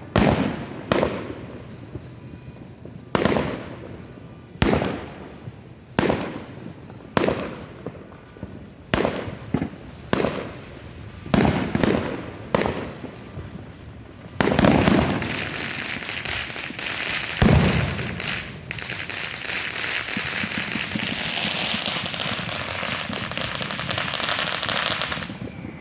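Neighbourhood fireworks going off: separate loud bangs, roughly one a second, then from about halfway a continuous dense crackling barrage.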